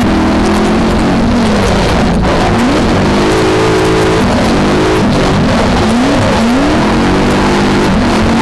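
V8 engine of a BMW E30 drift car at hard throttle, its revs climbing and dropping again and again with abrupt lifts and re-applications of throttle, over a loud steady hiss.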